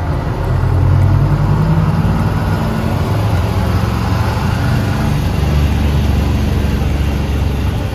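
Classic bus engine running on the move, heard from inside the cabin: a loud low drone whose pitch rises and falls as the bus pulls and changes speed.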